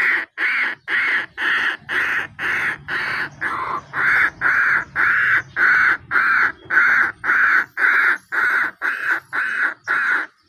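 Field-rat decoy call: a short call note repeated evenly about twice a second, each note alike.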